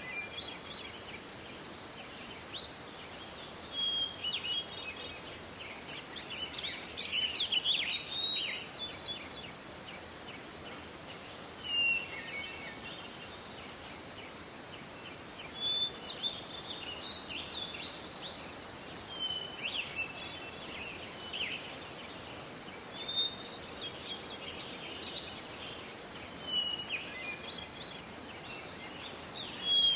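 Songbirds singing outdoors: repeated short phrases of high chirps and whistles, some dropping quickly in pitch, with brief pauses between bouts, over a steady faint background hiss.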